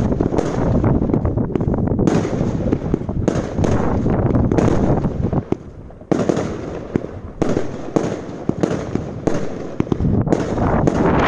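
Consumer fireworks firing in rapid succession: a run of sharp bangs over continuous crackle and rumble, with a brief lull about halfway through before the shots pick up again.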